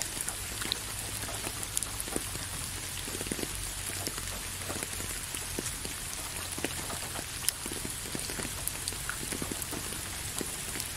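Steady rain: an even hiss with individual drops ticking sharply every so often.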